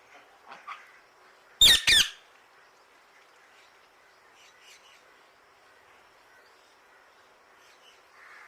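A parrot squawking twice in quick succession, loud, about two seconds in, with a few faint calls in the background.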